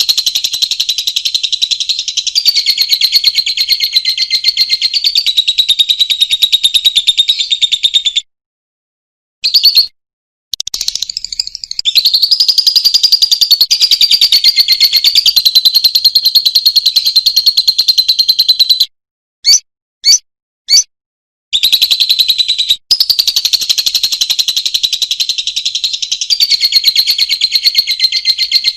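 Lovebird singing its long, fast, high chattering trill (the 'ngekek'), in runs of several seconds at a time. Two short pauses break the runs, and three brief chirps come about two-thirds of the way through.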